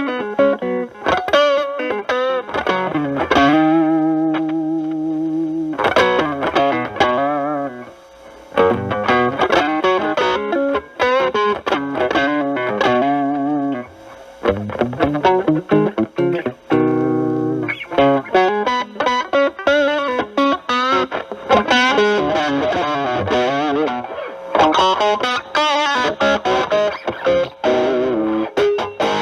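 Stratocaster played through a Proco RAT2 distortion stacked with an Ibanez TS9 Tube Screamer into a Marshall Valvestate amp: improvised distorted lead lines with bent and vibrato notes, a few held notes among the runs.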